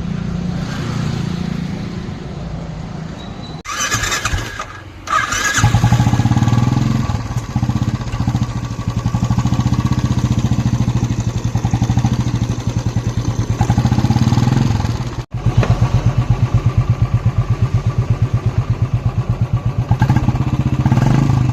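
Royal Enfield Bullet 350 single-cylinder engine running after head and block work, pulsing steadily. It falls away briefly about four seconds in, then picks up again and runs louder.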